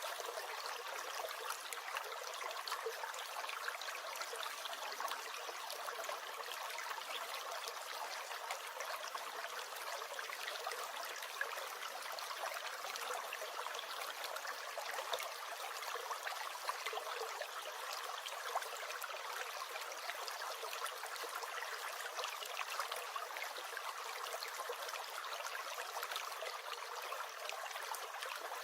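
Small stream gurgling and trickling steadily, an even water sound with no low rumble.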